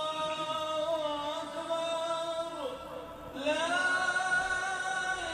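Music with a voice singing long, drawn-out notes, dipping in pitch midway and rising again.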